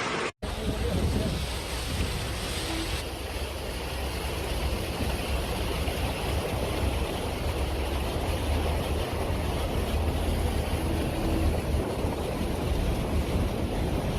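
Storm wind rushing and buffeting the microphone: a steady low rumble under a hiss, after a split-second dropout near the start.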